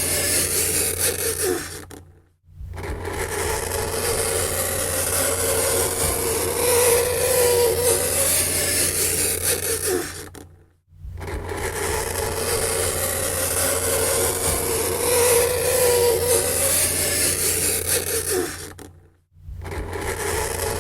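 Fingernails scraping across a chalkboard: a continuous screech with a squealing tone, in long strokes broken by three brief gaps about eight and a half seconds apart.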